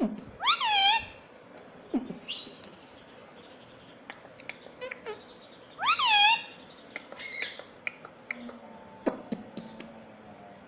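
Indian ring-necked parrot giving two loud calls about five seconds apart, each sweeping sharply up in pitch and then falling, with softer chirps and clicks in between.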